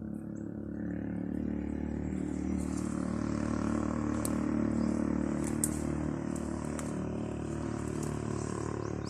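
An engine running steadily, growing louder over the first few seconds, with a few faint clicks.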